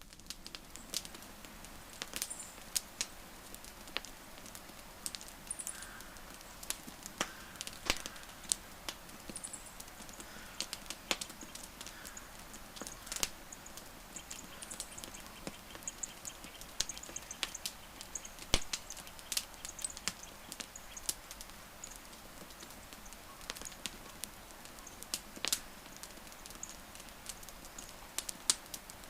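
Burning wood crackling, with irregular sharp pops over a steady soft hiss. A few faint high chirps sound in the background.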